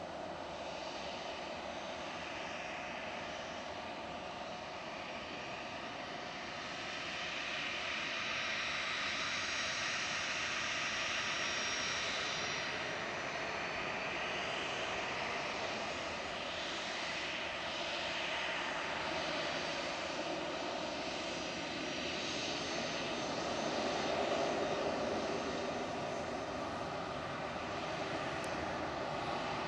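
Jet engines of a Boeing 737-300 (CFM56-3 turbofans), a steady rushing noise that grows louder about seven seconds in, with a faint high whine in the first half.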